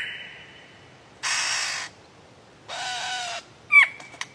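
Lyrebird calling: two harsh, rasping calls, each under a second long, then a quick whistle that sweeps downward near the end.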